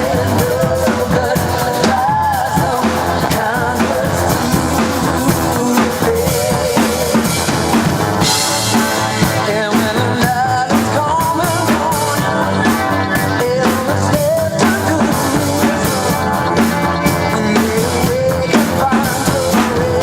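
Rock music: a full drum kit with bass drum and snare keeps a steady beat under a wavering lead melody.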